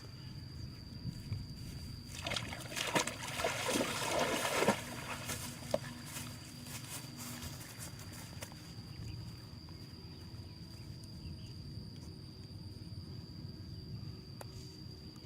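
Water splashing and sloshing for a couple of seconds, starting about two seconds in, then quieter water and outdoor ambience. A steady high-pitched whine runs throughout.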